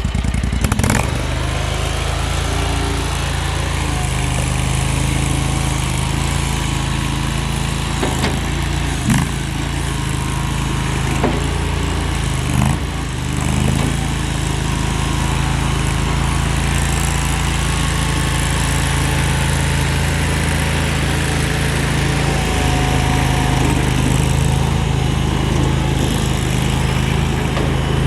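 Compact skid steer loader's engine running steadily, with a few short knocks and clunks between about 8 and 13 seconds in.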